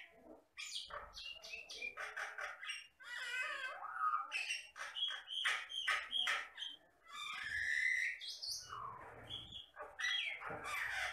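A common myna (jalak batam) singing a fast, varied run of whistles, squeaky chatter and clicks with hardly a break.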